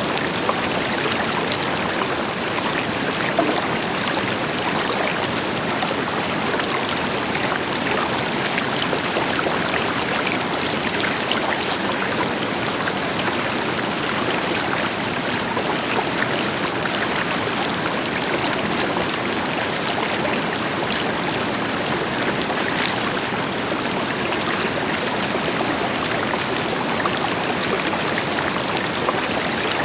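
River water flowing steadily over rocks, a constant rushing with fine splashing and gurgling, with the deeper rush of a distant waterfall beneath it.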